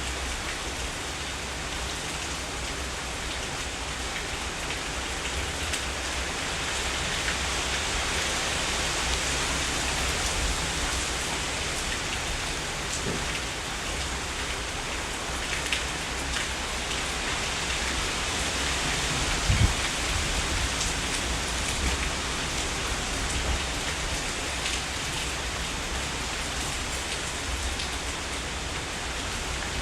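Steady heavy rain, with single drops tapping close by and one sharper tap about two-thirds of the way through.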